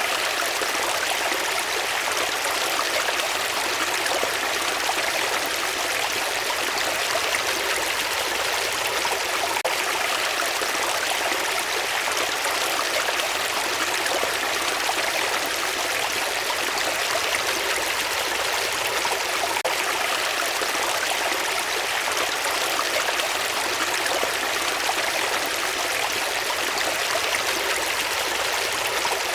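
Water running in a stream, steady and unbroken.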